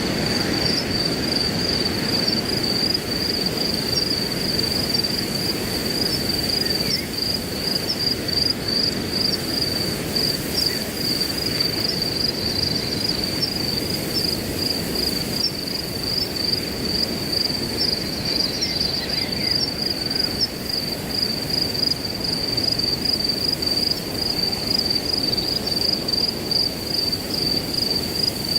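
Crickets chirping in a continuous, fast-pulsing high trill over a steady rush of wind through grass, with a few faint bird notes.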